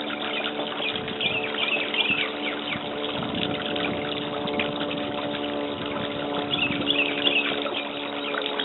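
Birds calling in two bursts of quick, high, squeaky notes, about a second in and again near the end, over a steady low hum.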